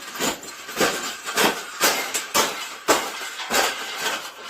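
A cage being folded flat: a run of sharp, irregular knocks and clanks, roughly two a second.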